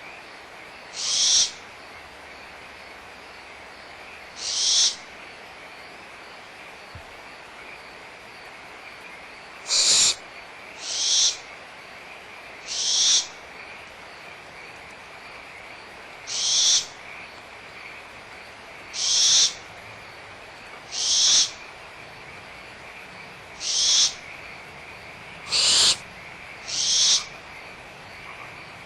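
Barn owl owlets giving hissing, screeching begging calls: about eleven half-second rasps at irregular intervals of one to four seconds. A steady frog chorus runs underneath.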